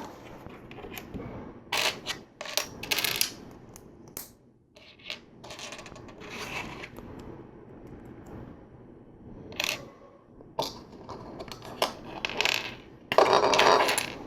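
Loose plastic LEGO pieces clicking and clattering as a hand rummages through a pile of parts to find bricks, with a louder rattle near the end.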